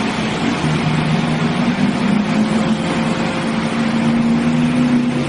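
A vehicle horn sounding one long, steady two-note blast that starts about half a second in, over loud vehicle noise.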